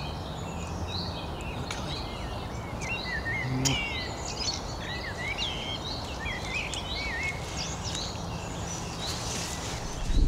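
Songbirds singing, a busy run of short whistled and chirped phrases one after another, over a steady low background rumble.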